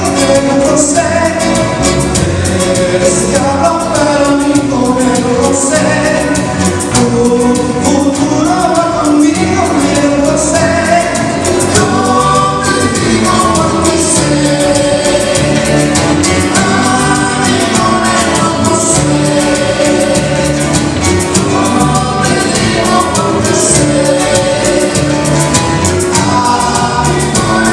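A trio's song: several voices singing together in harmony over instrumental accompaniment with a steady, repeating bass line.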